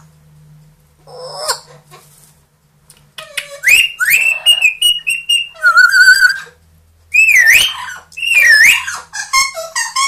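Pet parrot whistling a series of loud whistles that glide up and down, in short phrases beginning about three seconds in.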